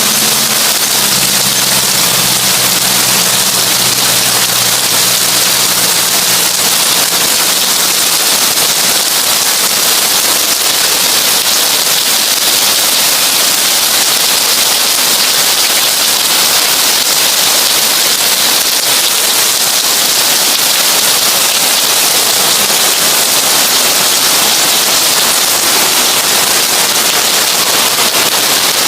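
Heavy rain falling steadily on a tin roof, a dense, even crackling hiss of drops on the metal. A low steady hum fades out over the first few seconds.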